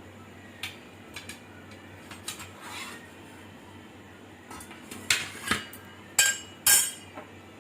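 Kitchen dishes and utensils being handled: a few light clinks and taps, then several louder clinks, some ringing briefly, in the second half.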